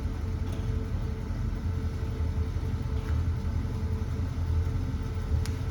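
Dodge 5.9 Magnum V8 idling steadily through Hooker headers, Dynomax Turbo mufflers and Summit glass packs: a low, even exhaust rumble with no revving, echoing in a garage.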